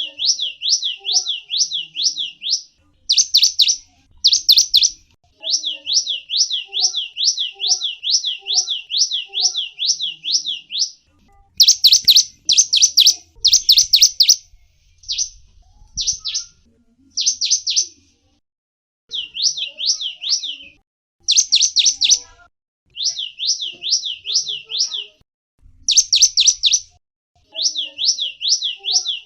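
Small songbird calling in quick runs of high, downward-sweeping chirps, about three a second, with short pauses between the runs.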